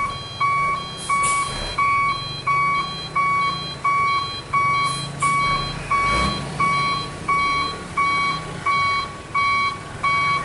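A truck's reverse warning beeper beeping steadily, about one and a half beeps a second, over the low running of a diesel engine.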